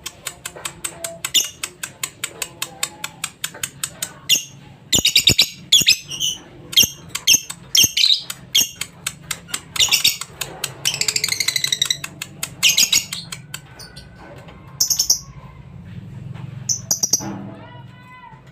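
Lovebird singing: a fast, chattering run of sharp high-pitched chirps and trills, the kind of lovebird song used to prompt a silent bird to start singing.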